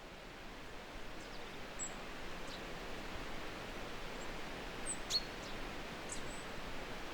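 Outdoor ambience fading in: a steady hiss with scattered short, high bird chirps and calls, a cluster of them about five seconds in.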